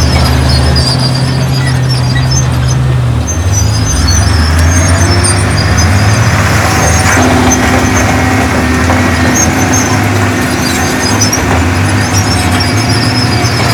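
Heavy earthmoving machinery's diesel engine running loudly, its pitch shifting a few times, with high squeaking and a thin whine over it.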